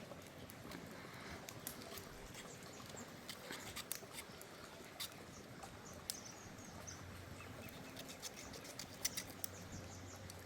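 Scattered light clicks and crackles over a quiet outdoor background, with faint short bird chirps near the middle.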